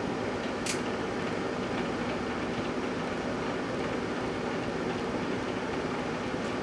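GE Dual Wave microwave oven running with a steady hum while it heats an empty foil-lined Pringles can. Less than a second in, a single short sharp crackle from the can sparking.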